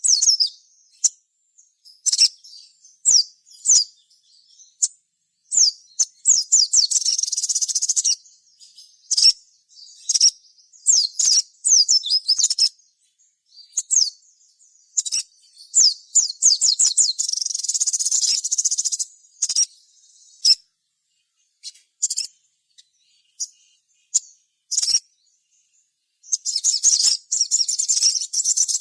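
Sogon (little spiderhunter) calling: bursts of rapid, high-pitched chattering trills of a second or two, with single sharp notes in between.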